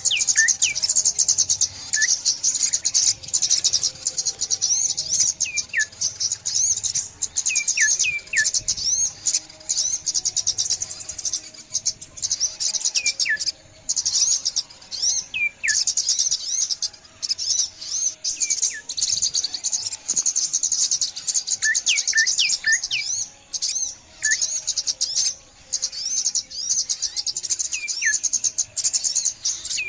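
Small songbirds chirping: a dense, rapid high twittering with repeated short whistles that slide down in pitch, several at a time every few seconds.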